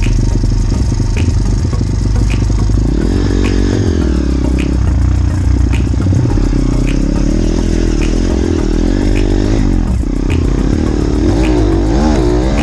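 Small motorbike engine running and revving up and down repeatedly over a heavy low rumble, with a light high tick about once a second.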